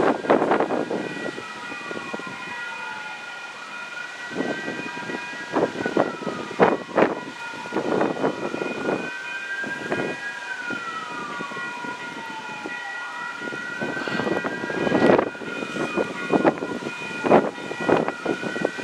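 A siren wailing slowly: its pitch climbs quickly, holds, then sinks over several seconds, about three times. Strong wind gusts buffet the microphone in loud irregular bursts.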